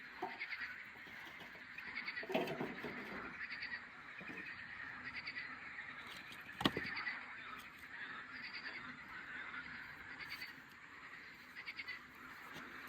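Chirping calls from small wild animals at the lakeside, in rapid repeated runs, with one sharp click about halfway through.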